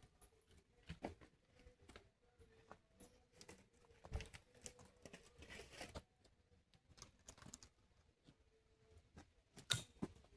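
Near silence broken by faint scattered rustles and small clicks, with a sharper click near the end.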